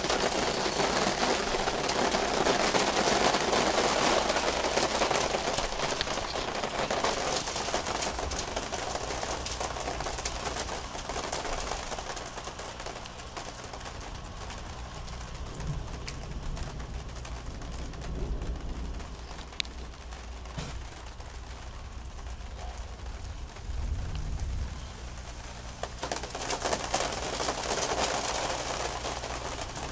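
Rain falling steadily, heavier at first and easing off after several seconds, then picking up again near the end, with a bird calling.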